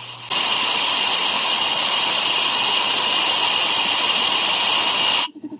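Compressed air from an air duster gun blowing steadily into the cylinder head's port as a loud hiss for about five seconds, starting and cutting off abruptly. It is a valve leak-down check on a Yamaha Mio Soul i 125 head with gasoline in the combustion chamber, where bubbles mean a leaking valve.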